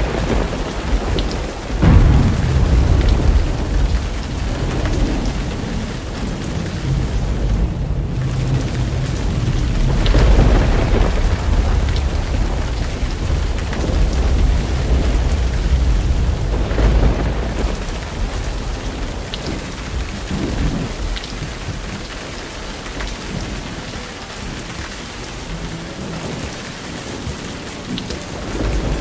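Steady heavy rain with thunder rumbling several times, the loudest roll about two seconds in.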